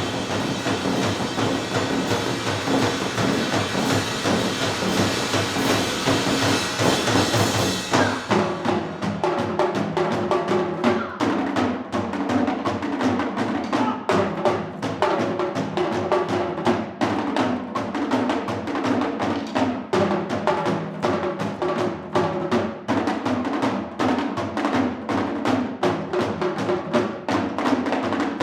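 Fusion percussion ensemble playing. For about the first eight seconds it is a dense, hissy wash, then it changes abruptly to fast, steady drum strokes over a repeating pitched figure.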